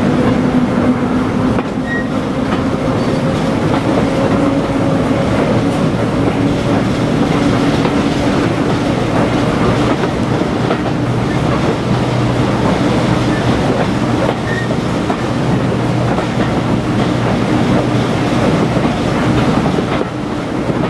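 Diesel locomotive running on the move, its engine note steady with a slight rise in pitch over the first several seconds, over continuous train running noise; a deeper steady engine tone comes up about halfway through.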